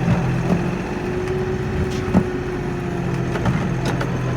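Kioti NX4510 compact tractor's diesel engine running steadily under load while plowing snow, with scattered sharp knocks and clicks. A higher steady tone joins for a couple of seconds in the middle.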